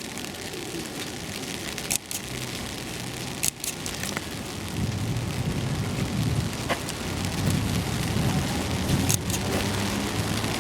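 Steady heavy rain falling and splashing on the street, with a low rumble growing louder about halfway through and a few sharp clicks.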